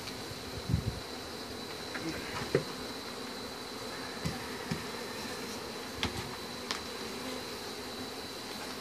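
Honey bees from an opened colony buzzing steadily in a dense swarm, with a few faint knocks.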